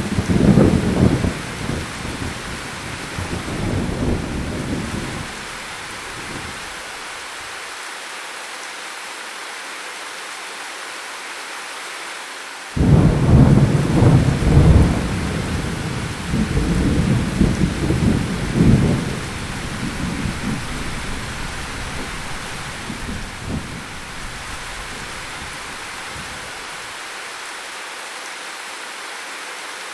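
Steady rain with two rolls of thunder. The first breaks right at the start and rumbles for about six seconds. The second cracks in suddenly a little before halfway and rolls on for over ten seconds, slowly dying away under the rain.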